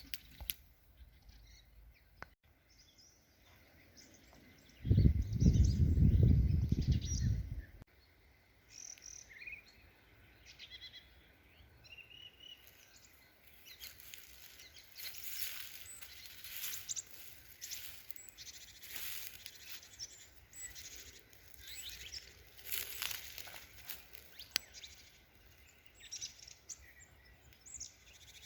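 Birds chirping and calling in the forest, in short high calls, with scattered faint clicks. A few seconds in, a loud low rumble lasts about three seconds.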